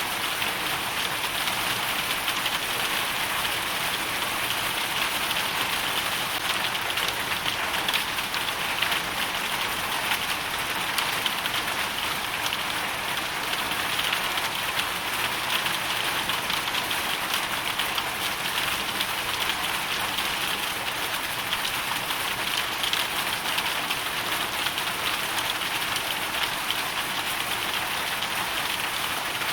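Hailstorm: hail and rain falling steadily, a dense, even hiss made of countless small impacts, with no let-up.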